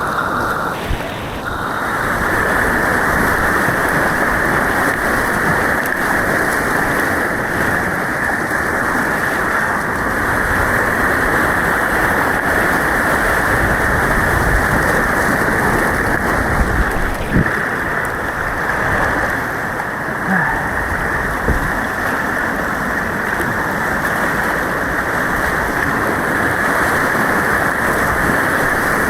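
Steady, muffled rushing of white water around a kayak, with a couple of faint knocks past the middle.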